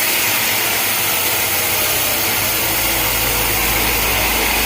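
Sawmill saw running through a log, a steady loud machine noise with a strong high hiss; a low engine rumble comes in about halfway through.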